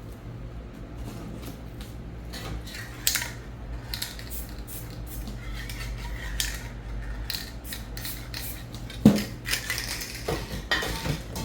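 Hard objects being handled and set down on a work surface: scattered clinks, light scrapes and ticks, with one sharp knock about nine seconds in followed by more clatter. A steady low hum runs underneath.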